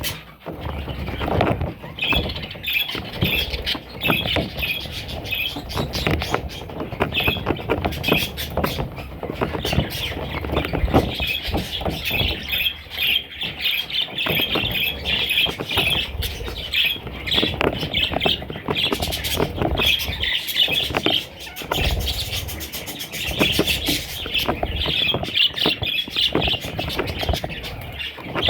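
Young budgerigar chicks calling in quick, repeated chirps and squawks, with short scratching and rustling clicks among them.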